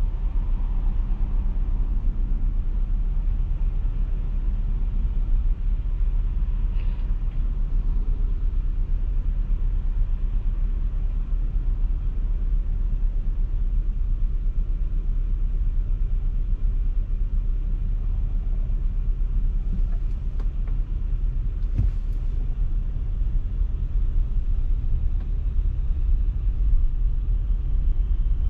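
Steady low rumble of a car driving, road and tyre noise without any clear engine note, with a few faint brief clicks.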